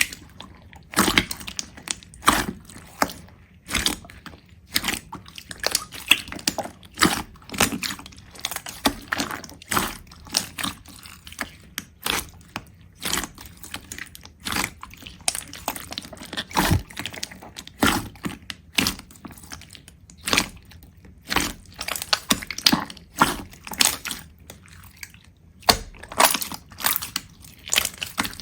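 A quick, irregular series of sharp crunches and cracks, roughly two or three a second, as of something brittle being crushed or broken.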